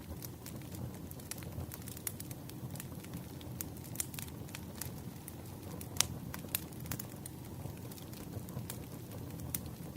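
Wood fire burning: a steady low rumble of flames with frequent irregular pops and crackles from the logs, the sharpest pop about six seconds in.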